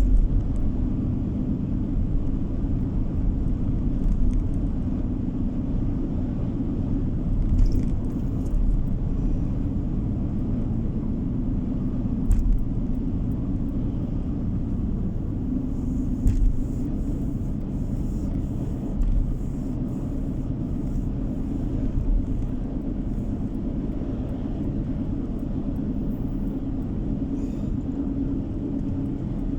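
Road noise heard from inside a moving car: a steady low rumble of engine and tyres, with a few brief ticks and knocks.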